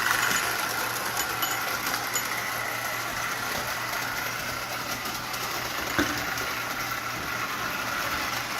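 Lionel 8300 toy steam locomotive running on its track: its electric motor and gearing give a steady whirring run with wheel rumble on the rails. A single sharp click sounds about six seconds in.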